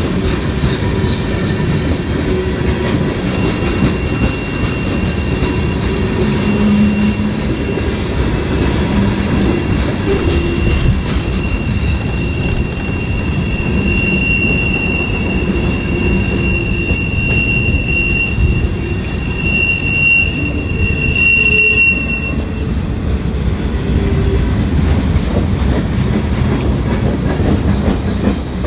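Freight train cars rolling past on the tracks: a steady loud rumble of wheels on rail with a fine clatter, and a high, thin wheel squeal that grows strongest from about halfway through and stops about three-quarters of the way in.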